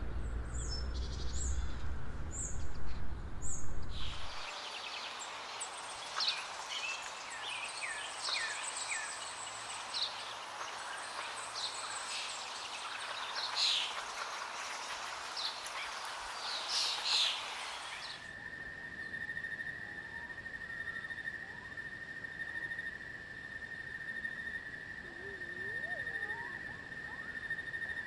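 Recorded bird calls. First come repeated short high chirps over a low rumble. At about four seconds the recording switches to a dense chorus of short whistled calls over a noisy background. At about eighteen seconds it switches again, to a steady high-pitched tone with a few faint calls.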